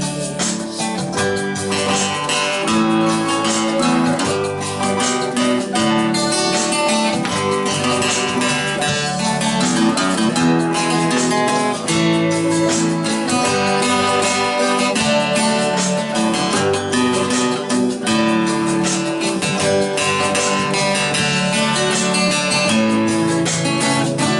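Instrumental break in a song: acoustic guitar playing steadily over the backing, with no vocals.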